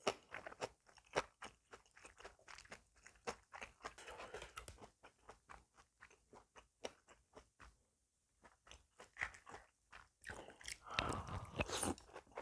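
Close-up eating sounds: chewing with wet mouth clicks and crunches of kimchi and noodles, densest near the end.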